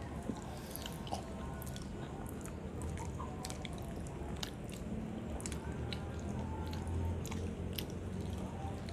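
Close-miked chewing and biting: a mouthful of food being chewed with many short, wet clicks and smacks, over a low steady hum.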